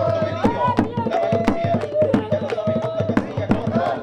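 Panamanian tamborito: hand drums beating a fast, steady rhythm under a held, wavering sung line.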